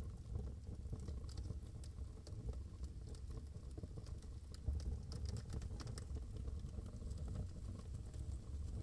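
Wood fire in a fireplace crackling, with scattered sharp pops and clicks over a low, steady rumble of the flames.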